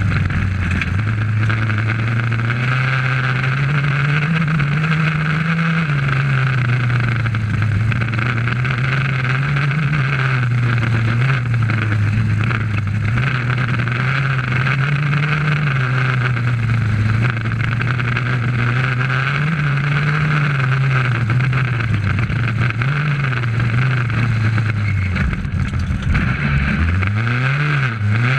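Rally car engine heard from inside the cockpit at stage speed, its pitch rising and falling as the driver works the throttle and changes gear. Near the end it drops low, then climbs steeply as the car accelerates hard again.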